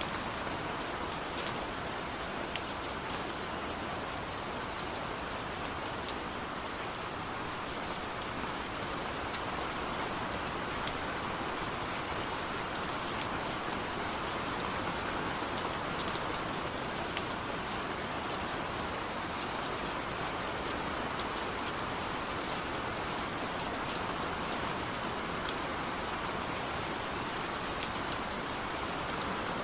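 Steady rainfall, an even hiss with scattered sharp drip ticks of single drops landing close by.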